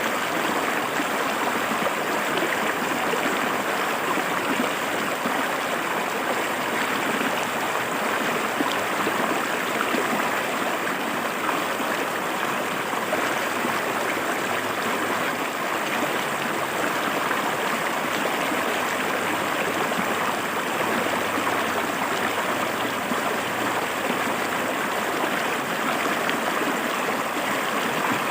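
River water flowing over rocks, a steady rushing and babbling that holds an even level throughout.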